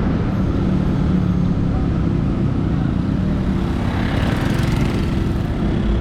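Steady city road traffic: motor vehicle engines running under a low, continuous rumble, with a brief louder hiss about four seconds in.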